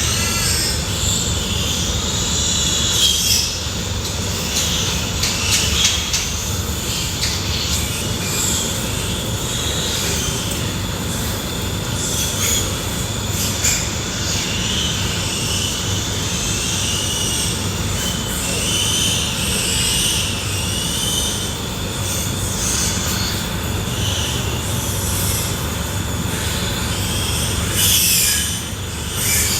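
Pigs squealing over and over, high and wavering, above a steady low rumble.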